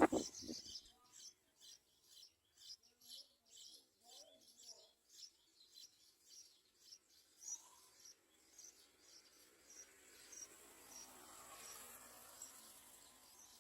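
A sharp knock right at the start, then a run of short, high chirps repeated irregularly about two or three times a second: small yellow-vented bulbul chicks calling.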